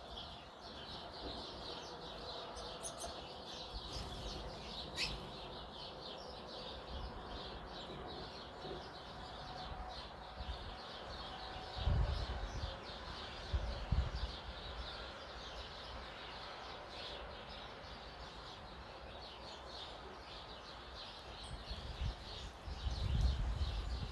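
A flock of small songbirds chirping continuously over one another. Several low bumps stand out, about halfway through and again near the end.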